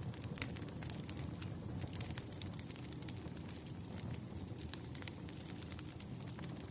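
Burning firewood: a steady low rumble of flames with frequent sharp, irregular crackles and pops from the burning logs.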